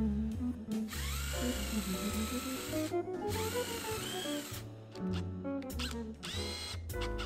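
Power drill running in three bursts, each speeding up, holding and winding down, the last one short.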